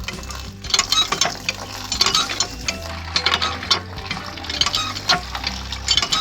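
Quick, irregular clicking and clinking of small hard objects being handled, with a steady low hum underneath.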